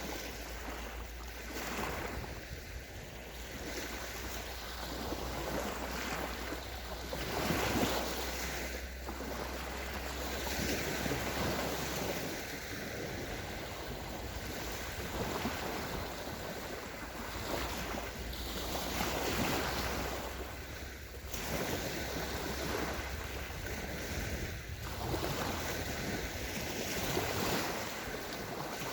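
Small sea waves breaking and washing up a sandy shore of the Sea of Azov, a new surge every two to three seconds. Wind rumbles on the microphone throughout.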